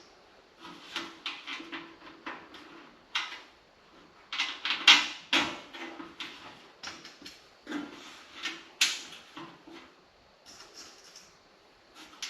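Irregular clatter of sander parts and hardware being handled: sharp knocks, clicks and short rattles at uneven intervals, the loudest around the middle.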